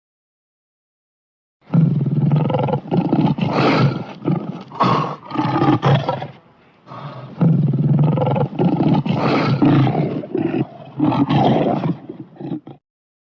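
Lion roar and snarl sound effect, several clips mixed together. Silent for the first second and a half, then a long run of roars and snarls broken by short gaps, with a brief lull about halfway; it stops shortly before the end.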